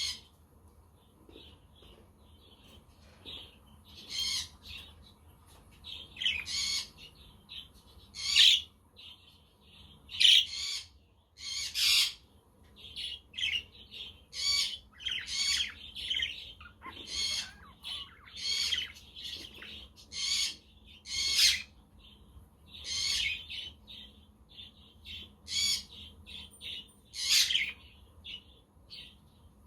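Budgerigars (pet parakeets) chirping and squawking in short, loud calls, one every second or two.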